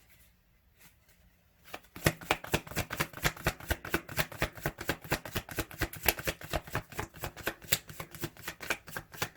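A deck of tarot cards being shuffled by hand, a fast run of crisp card clicks that starts about two seconds in and stops just before the end.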